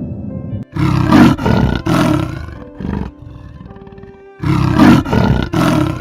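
A large animal's loud, harsh calls in two series of three pulses, over steady background music.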